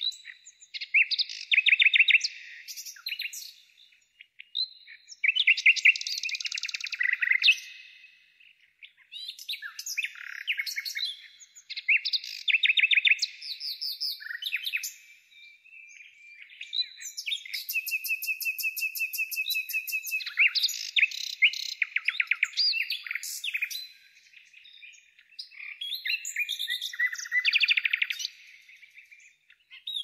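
Songbirds singing, a run of quick chirps and rapid trills with short pauses between phrases, and a steady buzzy trill held for a few seconds about halfway through.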